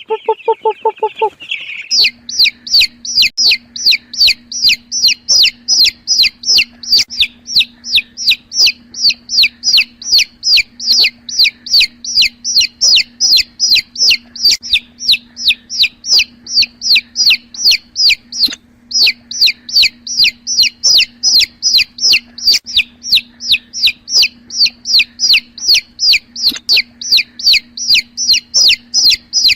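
A young chick peeping loudly and steadily, about three sharp high peeps a second with one brief pause, over a faint steady hum. A lower pulsing cluck-like call is heard for the first two seconds.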